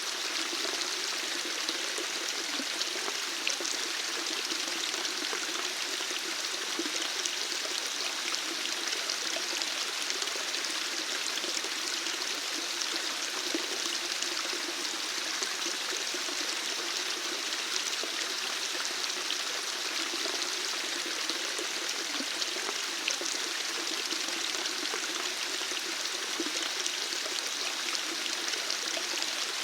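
Running water flowing steadily and evenly, with a fine scatter of small splashes and drips through it.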